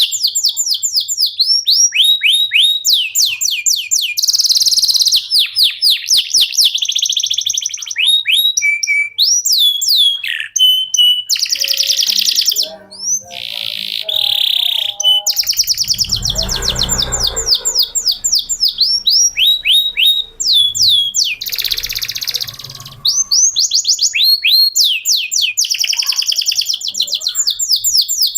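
Male canary singing: long, fast runs of repeated chirping notes rolled into trills, phrase after phrase with brief pauses between. A low rumble sounds under the song about halfway through.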